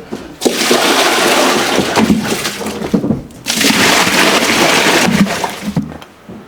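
Liquid rushing or pouring in two long spells of about three seconds each, with a short break between.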